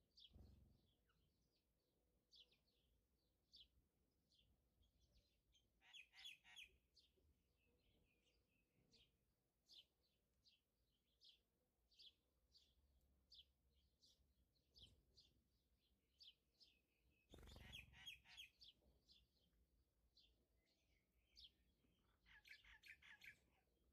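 A bird chirping faintly over and over, a short high chirp a bit more than once a second. A few brief soft clatters come through, the loudest a little past the middle.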